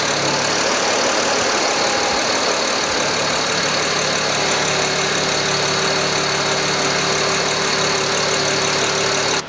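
BMW 335i twin-turbo inline-six, fitted with open cone-filter air intakes, running steadily at idle with an even hiss. A steady higher tone comes in about halfway through.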